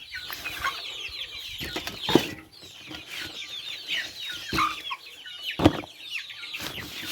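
A flock of native chickens calling with many short, high, falling peeps and clucks. Three sharp knocks come about two, four and a half, and five and a half seconds in.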